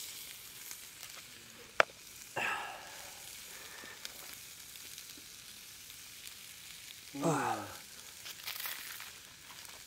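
Faint steady sizzling of food frying over a campfire. A sharp click comes about two seconds in, and a brief voiced 'mm' from a man eating comes about seven seconds in.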